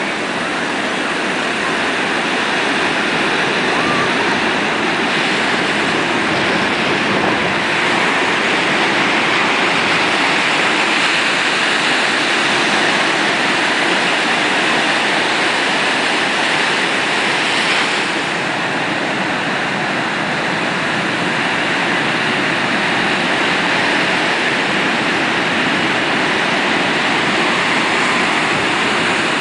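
Heavy ocean surf breaking on the beach: a steady, dense wash of wave noise that eases slightly about two-thirds of the way through.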